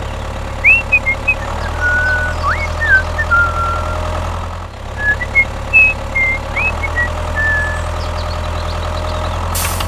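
A small motor running steadily with a low hum that dips briefly midway, with short high whistling chirps over it.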